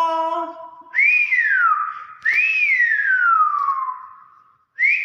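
Hill myna whistling: loud whistles, each rising quickly and then sliding down in pitch, at about one second in, a second later, and again near the end. They follow a held, voice-like note that fades out in the first second.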